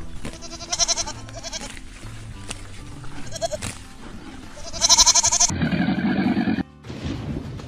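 Goats bleating, three wavering bleats with the last the loudest, over background music. Near the end a lower, rough sound of about a second follows and cuts off abruptly.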